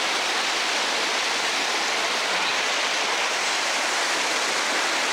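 Brook water rushing over a waterfall and rocks close by: a loud, steady, unbroken rush.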